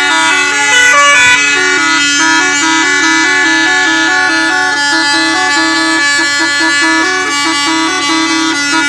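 Custom musical vehicle horn playing a repeating melody over a steady held note, loud and continuous, with a short pitch slide about a second in.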